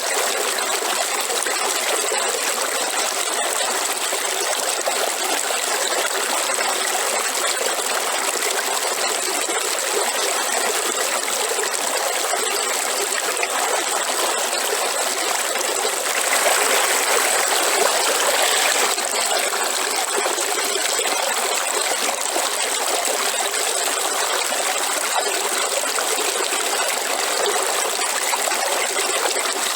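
Waterfall: a steady rush of falling water, a little louder for a couple of seconds in the middle.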